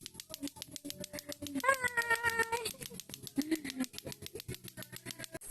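Lato-lato clacker balls clacking rapidly and evenly, about nine clacks a second. A cat meows once about two seconds in, with a shorter, lower call about a second later.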